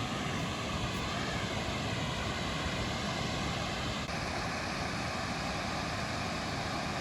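A motor running steadily, with a slight change in tone about four seconds in.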